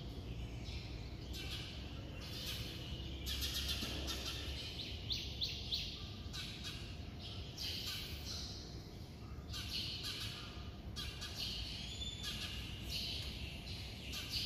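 Small birds chirping on and off over a steady low background rumble.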